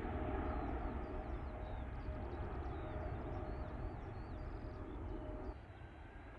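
Jet airliner engine noise: a steady rumble with a thin whine that drops away abruptly about five and a half seconds in. Small birds chirp over it.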